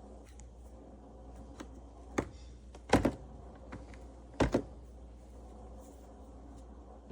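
A few sharp knocks and clicks over a low steady hum: a single knock about two seconds in, then two louder double knocks about a second and a half apart.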